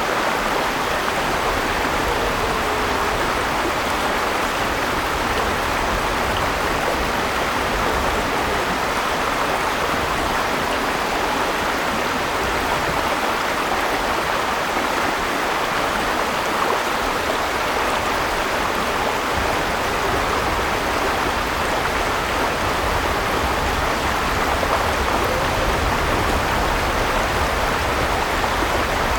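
River water flowing and rushing over rocks, a steady even rush without breaks.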